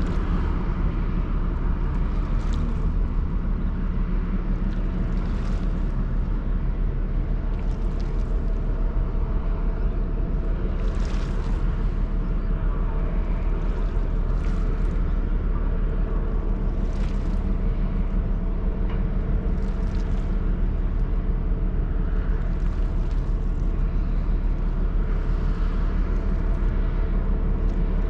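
Steady low drone of the ferry's engines running, with a soft hiss swelling up every two to three seconds.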